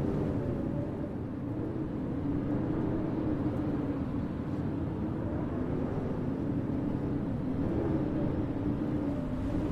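Blizzard wind howling with a low tone that wavers slowly up and down, over a steady rumble.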